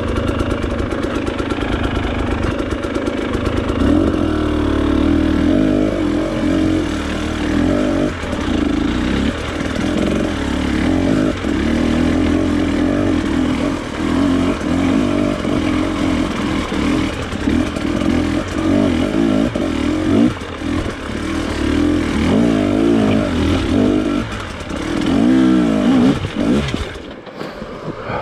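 Enduro motorcycle engine under way off-road, its revs rising and falling steadily with the throttle. It gives quick repeated blips a few seconds before the end, then drops away.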